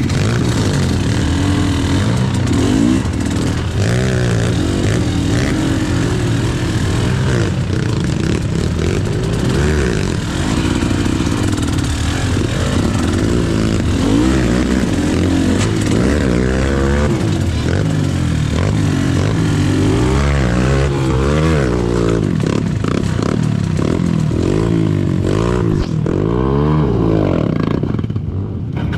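KTM EXC 300 two-stroke dirt bike engine revving up and down over and over under load, its pitch rising and falling every second or two as the throttle is worked.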